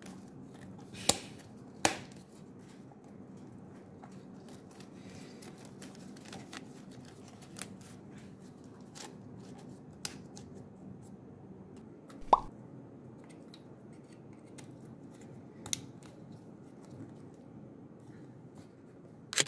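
Plastic harness clips and connectors clicking into place as a wiring harness and hoses are pressed onto their mounts, with light rustling of the braided harness in between. There are several separate sharp clicks, the loudest a little past the middle.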